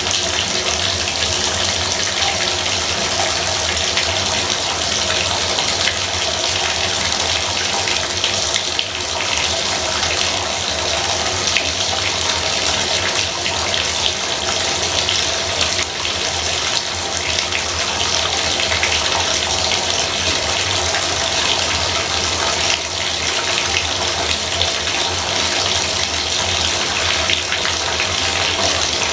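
Bathtub faucet running steadily, a continuous gush of water falling into the tub.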